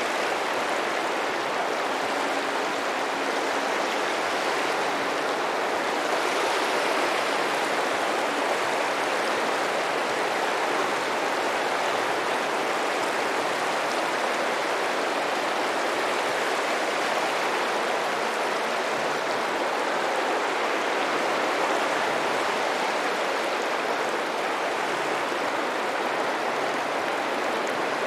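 Steady rushing water, an even unbroken wash with no distinct waves rising and falling.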